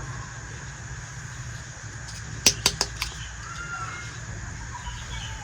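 Small plastic toy pieces being handled, giving a quick run of four sharp clicks about two and a half seconds in, over a steady background hum.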